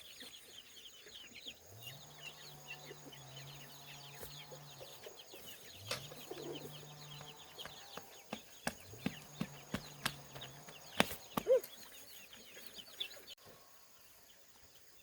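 Many ducklings peeping in a constant high chatter. A low hum comes and goes three times, and there are a few sharp clicks.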